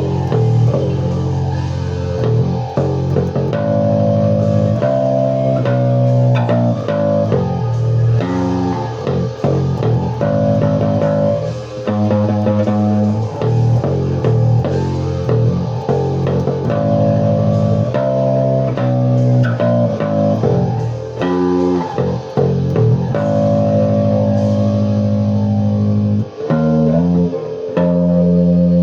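Guitar music with bass guitar: sustained chords and bass notes changing in a steady rhythm.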